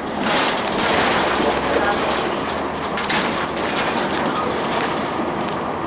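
Inside a Blue Bird CS transit bus on the move: the Cummins ISL9 diesel and road noise make a steady rumble and hiss, which swells briefly near the start.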